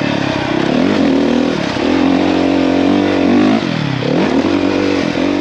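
450 dirt bike's single-cylinder four-stroke engine under way, its pitch falling and climbing back several times as the throttle is rolled off and on, the deepest drop about four seconds in.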